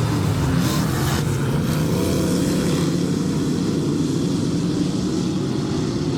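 A field of dirt-track race cars at full throttle on the oval at the start of a heat race, their engines blending into one steady drone, with pitches climbing about two seconds in.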